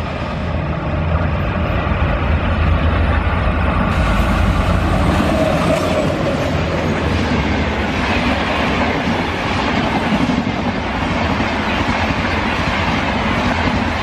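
A train running on rails: a steady, loud noise of wheels on track, strongest in the low range.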